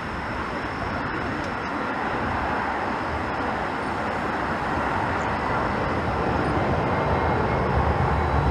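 Jet airliner approaching, its engine noise a steady rumble that swells gradually louder.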